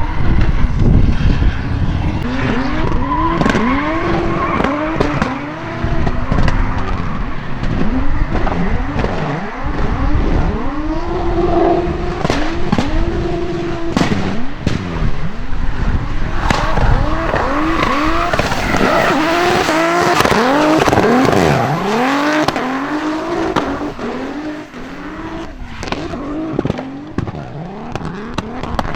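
Drift car engines revving hard, their pitch rising and falling again and again in quick swoops, over tyres squealing and skidding as the cars slide. Scattered sharp cracks through it, a little quieter near the end.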